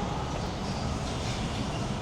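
Steady low rumbling background noise of a supermarket aisle, with no distinct event.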